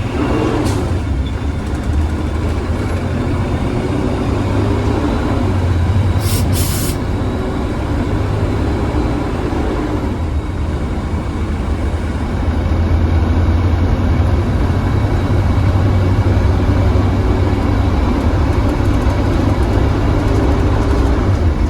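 2015 Blue Bird Vision school bus on the move: a steady low engine drone whose pitch slowly rises and falls with speed, with a couple of short sharp clicks about six seconds in. It gets slightly louder in the second half.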